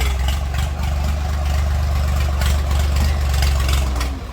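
Heavy diesel engine running steadily at low revs, a deep, even hum with a rapid clatter over it.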